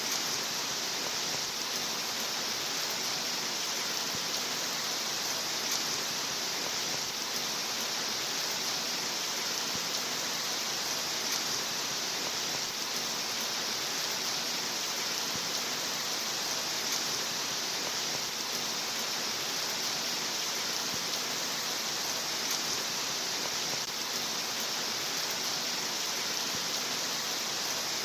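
Steady rain, an even hiss that holds level throughout.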